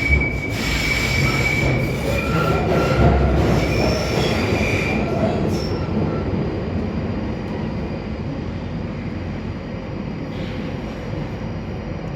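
Northern line tube train running round the tight curve of the Kennington Loop, heard from inside the carriage: a steady rumble of wheels on rail, with high-pitched wheel squeal from the curve through the first half that dies away about six seconds in.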